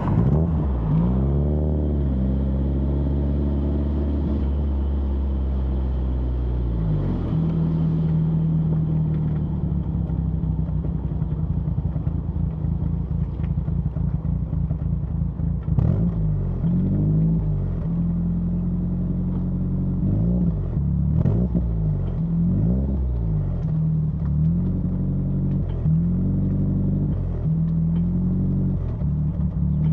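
Exhaust note of a 1991 BMW E30 316i's four-cylinder engine, picked up at the rear license plate while driving. It runs steadily for long stretches, with the engine pitch swinging down and back up several times, about a second in and repeatedly from the middle on, as the revs change.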